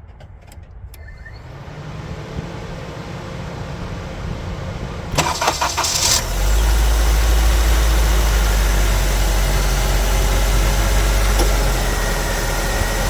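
Honda CR-V four-cylinder engine being started for the first time on a newly installed remanufactured starter: a few light clicks, about a second of cranking, then the engine catches about six seconds in and runs at a steady idle.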